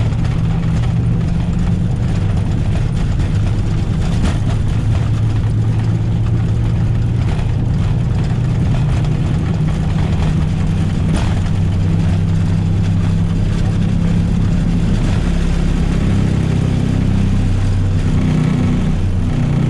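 Steady low rumble and hum of an Airbus A321's engines and airflow heard inside the cockpit during takeoff at flex thrust. A couple of short sharp knocks come through it.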